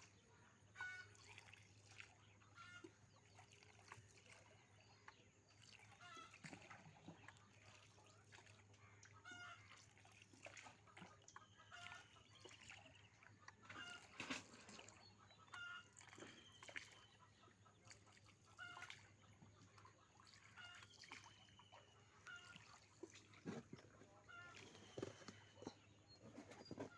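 Faint bird calls: short chirps repeating every second or two, with a few longer gliding calls, over a low steady hum.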